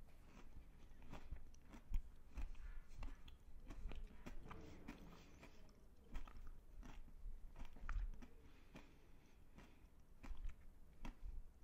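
Close-miked biting and chewing of a chocolate-coated Magnum bar: the chocolate shell cracks and crunches in many short, irregular clicks, mixed with wet mouth sounds.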